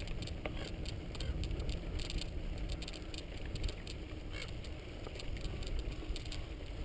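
Mountain bike on a dirt road: a low, steady wind rumble on the microphone with many scattered light clicks and rattles.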